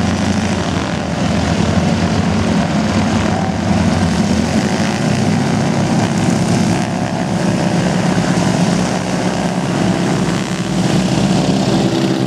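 Propeller airplane engine running loud and steady, its pitch shifting slightly.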